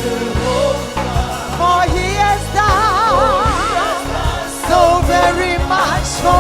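Gospel worship song: a voice holds a long note with wide vibrato over a backing of bass and a steady drum beat.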